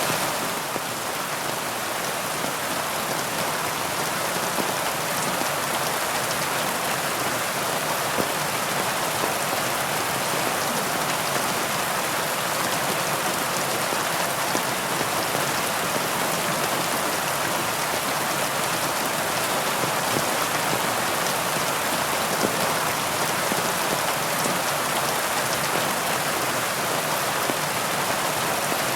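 Heavy rain falling steadily: a dense, even hiss of downpour with faint scattered drop ticks.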